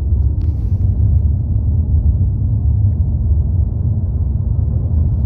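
Steady low rumble of road and engine noise inside a car's cabin while it is being driven.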